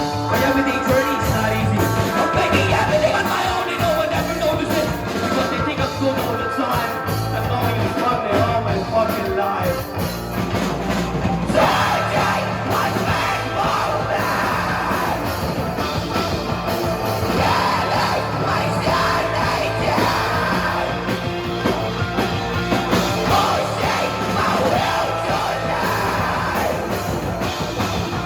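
Live rock band playing loudly, with a singer's voice over the band from about twelve seconds in.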